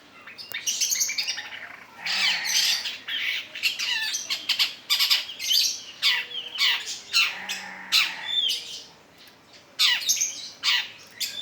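Long-tailed shrike singing: fast runs of harsh, scratchy squawks and sharp falling whistle notes in repeated bursts, with a brief pause about nine seconds in.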